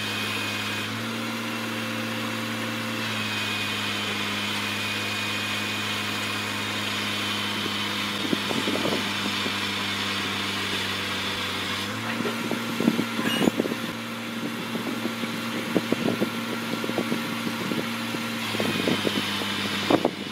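Heavy machine's diesel engine running steadily at idle, its pitch shifting slightly a few times. Scattered short knocks and clanks come in during the second half.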